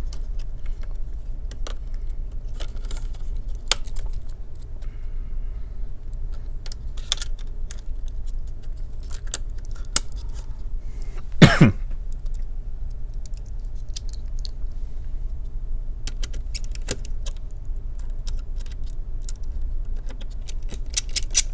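Scattered small clicks and metallic clinks of hand tools and parts being handled on an open laptop, with one louder knock about eleven seconds in, over a steady low hum.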